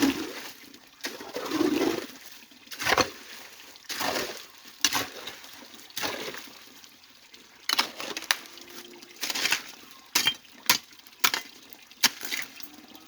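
Repeated splashing and knocking as debris is dug and thrown out of a shallow stream to clear its channel, in separate strokes roughly one a second.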